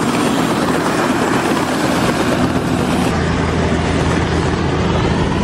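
Helicopter running, a loud steady rotor and turbine noise; about three seconds in the sound turns deeper, with a stronger low hum.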